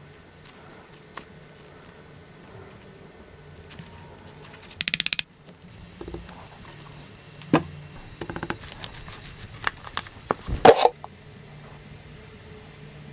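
Scattered clicks and knocks over a low steady hum, with a quick rattle of ticks about five seconds in and a louder knock near eleven seconds.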